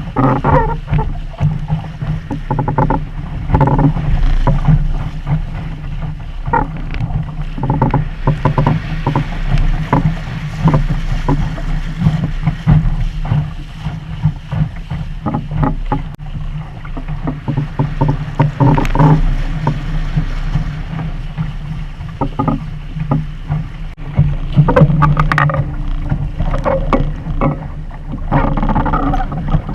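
Wind rumbling on a GoPro Hero 3's microphone aboard a Sunfish sailboat under way, with irregular splashes and knocks of water against the small hull.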